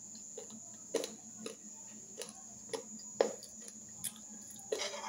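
A person chewing food with the mouth closed: soft, irregular wet clicks and smacks, roughly one every half second, over a steady faint hum.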